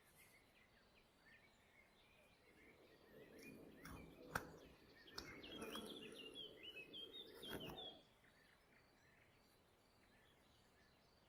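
Faint bird chirping over near silence. In the middle, a few seconds of rubbing or handling noise with several sharp clicks, which stops about two thirds of the way through.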